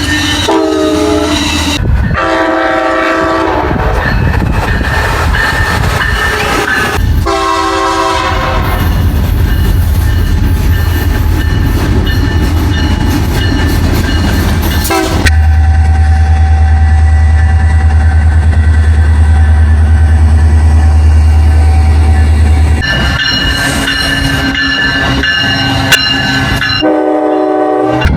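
Locomotive multi-chime air horn sounding a series of blasts over the rumble and clatter of a passing train. A heavy steady low rumble of a train going by dominates the middle stretch.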